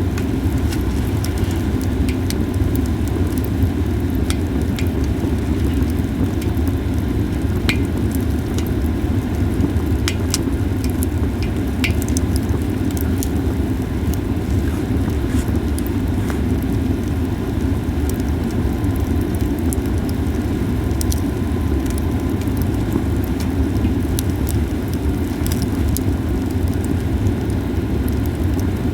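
Japanese cedar firewood burning in a campfire, giving scattered sharp crackles and pops over a steady low rumble.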